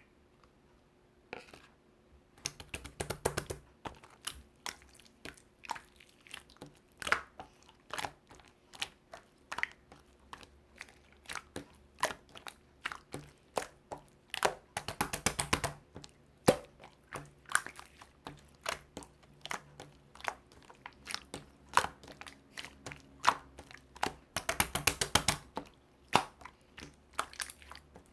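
Close crunching and chewing: irregular sharp crunches, with three busier runs of crunching about three seconds in, halfway through and near the end.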